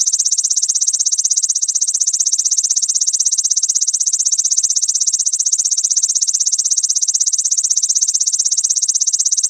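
Grasshopper stridulating: a continuous, high-pitched, rapidly pulsing buzz.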